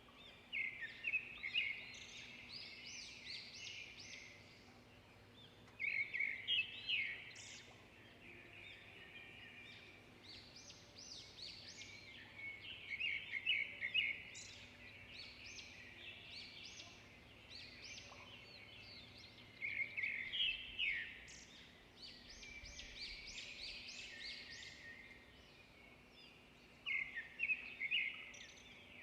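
Songbirds chirping and singing: quick, high chirps come in louder bursts about every seven seconds, with softer chatter between them.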